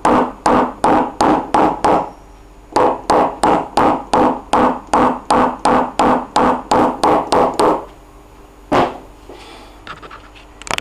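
Rapid, even light hammer taps on the sheet-metal trunk lid of an Alfa Romeo 156, about four a second, each ringing briefly. The tapping pauses about two seconds in, runs on until near the end, then a single tap follows. This is the tap-down step of paintless dent repair.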